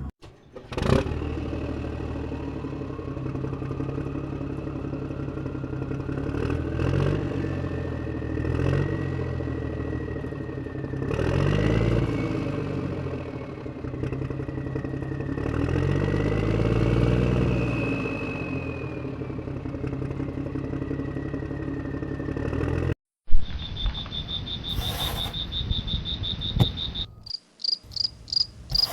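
A small engine running for about twenty seconds, its pitch rising and falling several times as the speed changes. It cuts off suddenly, and crickets trill, the last seconds in rapid chirps.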